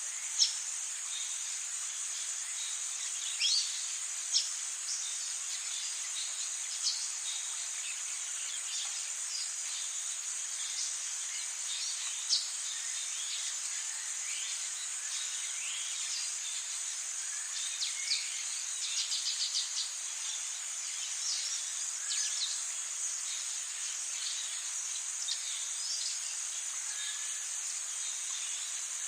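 Rainforest ambience: a steady high-pitched drone of insects, with many short bird calls and chirps scattered through it, including a quick run of repeated notes about nineteen seconds in.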